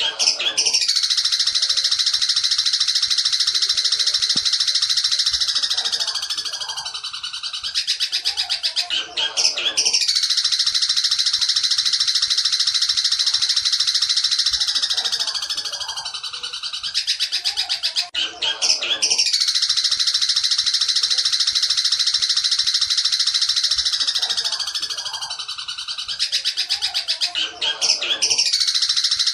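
Long-tailed shrike (cendet) song in the fast 'petir' style: a loud, dense, unbroken high rattle held for about eight seconds, trailing off into a short break of a few scattered notes, then starting again, three times over.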